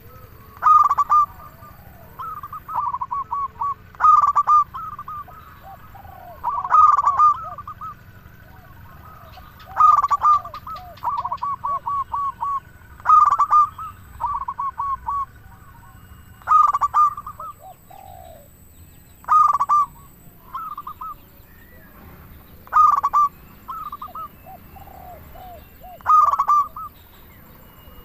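Zebra dove (perkutut) cooing its song over and over, a phrase about every three seconds, each a loud opening note followed by a quick run of softer rolling notes.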